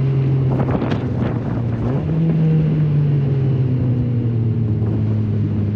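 Muffler-deleted 1.5-litre four-cylinder engine of a 2008 Honda Fit Sport race car, heard from inside the cabin, running at moderate revs. The revs rise briefly about two seconds in, then ease off and fall gradually. A few sharp clicks come around the first second.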